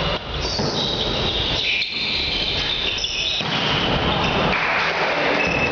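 Volleyball game in an echoing sports hall: dense hall noise with several short high-pitched squeaks.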